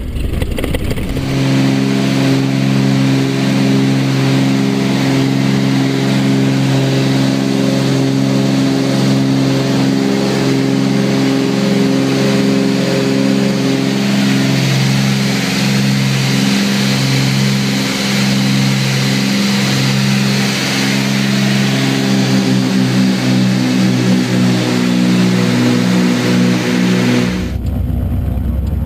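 Cessna 310R's two piston engines and propellers running steadily in flight. The drone wavers in a slow beat as the two engines turn at slightly different speeds. It starts abruptly about a second in and cuts off just before the end.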